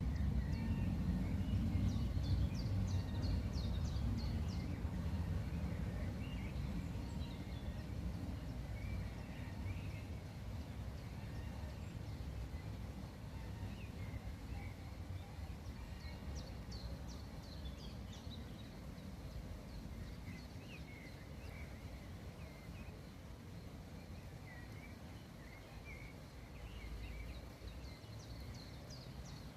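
Small birds calling: scattered short chirps, with a rapid run of very high chirps three times, near the start, about halfway and near the end. Under them a steady low rumble, loudest at first and slowly fading.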